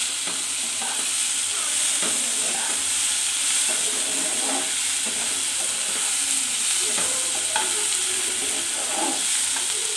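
Chopped onion, tomato and whole spices frying in a nonstick wok with a steady sizzle, while a slotted metal spatula stirs and scrapes through them in strokes every second or so.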